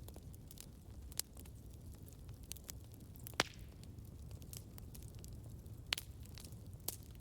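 Campfire burning: a low steady rumble with scattered sharp crackles and pops of burning wood. Louder snaps come at about one, three and a half, and six seconds in.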